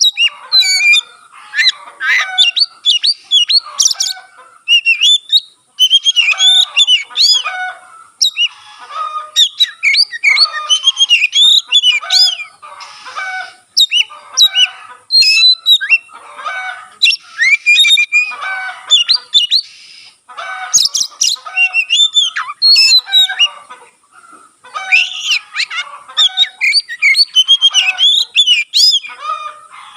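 Oriental magpie-robin (kacer) in full song: fast, varied runs of sliding whistled notes, delivered in phrases of a few seconds with brief pauses between them.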